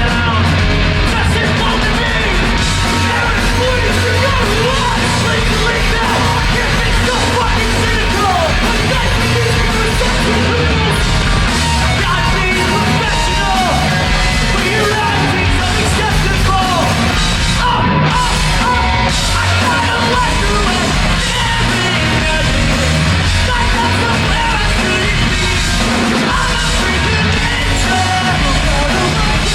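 Rock band playing punk rock live and loud, with yelled, shouted singing over the full band.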